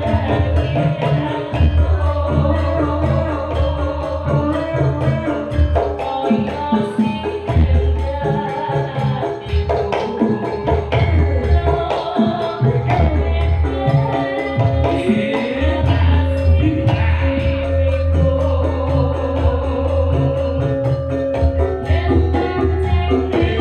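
Javanese Sragenan-style music with gamelan and kendang hand drumming, played continuously with a strong, pulsing bass.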